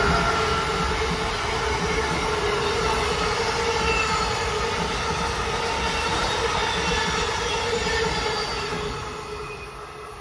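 Amtrak passenger train hauled by an ACS-64 electric locomotive passing close by: wheels rumbling on the rails, with a steady whine over the noise. The sound fades from about nine seconds in as the last cars pull away.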